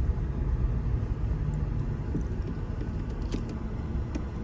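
Low, steady rumble of a car driving: engine and road noise, with a couple of faint clicks in the second half.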